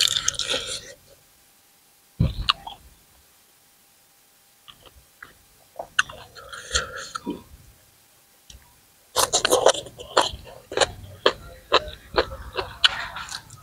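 Close-up mouth sounds of a man eating raw shrimp and green papaya salad: wet chewing and crunching in bursts with short pauses, growing dense and crackly for the last few seconds. There is a single low thump about two seconds in.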